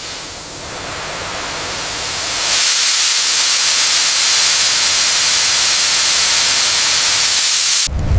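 Steady, high hiss of a high-pressure jet that swells over the first couple of seconds, holds, then cuts off suddenly near the end.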